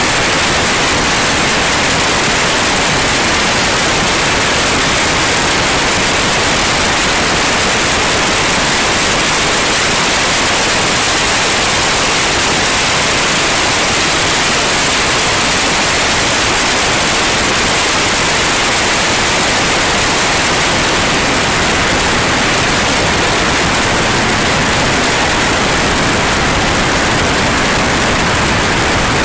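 Loud, steady rushing noise of a light aircraft in flight, the wind and engine blending into an even roar with no change in pitch or level.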